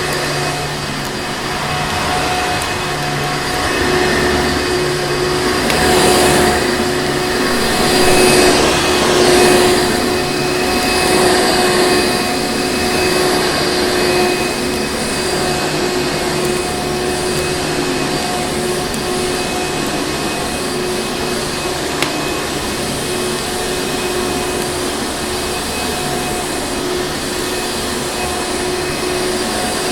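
Vacuum cleaner running steadily, a continuous rushing hum with a steady motor whine. It swells a little louder for a few seconds in the first half.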